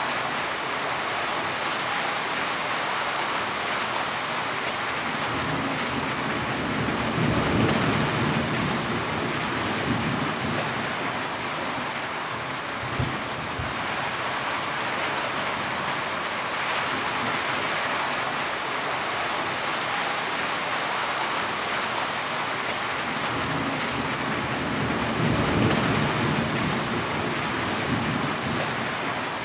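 Heavy rain falling steadily, with low rumbles of thunder swelling up twice, about a quarter of the way in and again near the end.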